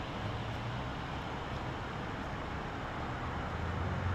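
Steady low hum of an idling vehicle engine over a wash of street noise, growing a little louder near the end.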